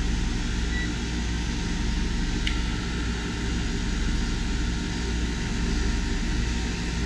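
A Mabru MPS 12 V DC mini heat pump running steadily with its radiator fans and circulation pump: a constant whir with a low hum, and a single click about two and a half seconds in.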